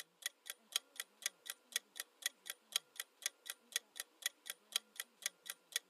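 Clock-tick countdown timer sound effect, ticking evenly about four times a second.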